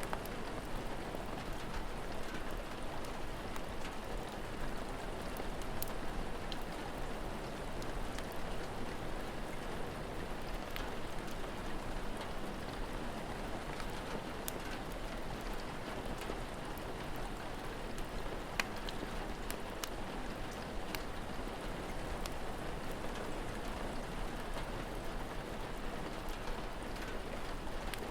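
Steady rain with scattered sharp pops from a crackling wood fire.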